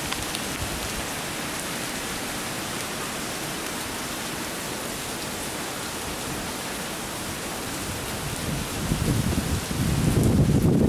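Steady hiss of falling rain. About eight seconds in, gusty wind buffeting the microphone adds a louder low rumble.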